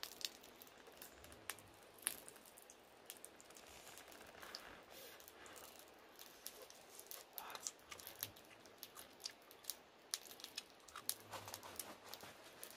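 Faint crunching and tearing of a grilled coconut worm being bitten and chewed, with scattered sharp clicks.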